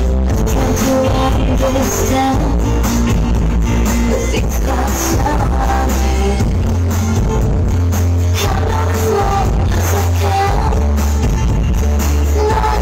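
Pop song with singing, played loud over a large sound system, with heavy, sustained bass.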